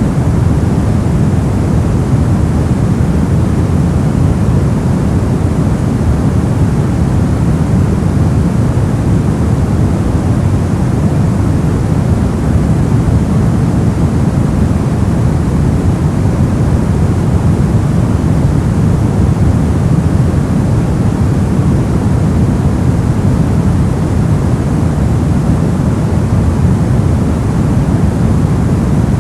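Steady white noise played as a sleep and relaxation sound, an unchanging hiss heavier in the low end.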